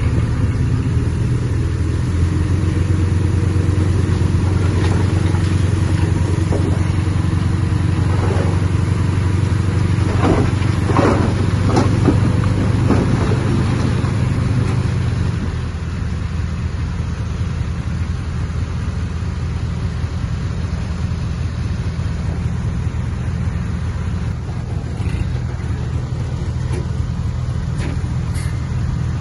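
Heavy diesel earthmoving machinery running under load, a steady low drone that eases off about halfway through, with a few brief higher-pitched sounds near the middle.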